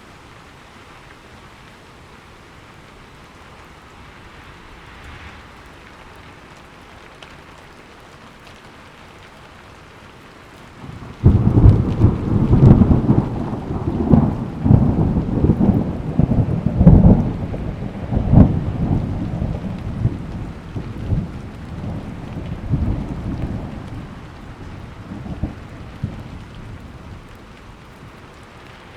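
Steady rain, then about eleven seconds in a sudden loud thunderclap that rumbles with repeated cracks for about fifteen seconds and fades back under the rain.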